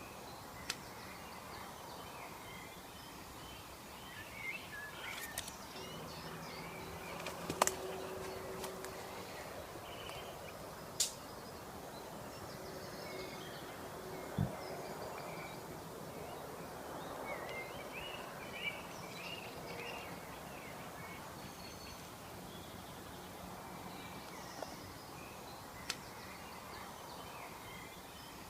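Birds chirping and calling over a steady background hiss, with a few sharp clicks scattered through, the loudest about a quarter of the way in.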